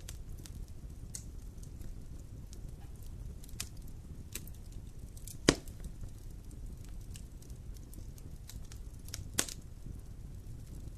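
Campfire burning and crackling: scattered sharp pops over a low steady rumble, with one loud pop about halfway through and another near the end.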